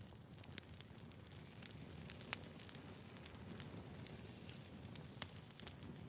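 Small wood fire crackling faintly in a compact fire stand, with irregular sharp pops over a low hiss; two louder pops come about two seconds in and again near the end.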